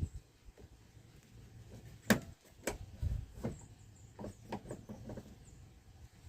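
Scattered sharp metallic clicks and knocks from hand work on a tractor's loader joystick linkage. The loudest comes about two seconds in, followed by a quicker run of lighter clicks a couple of seconds later.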